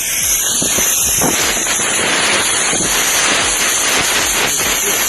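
Loud, steady hiss of a pressurised jet, with irregular crackling sputters through it, as the fuel injectors are being cleaned.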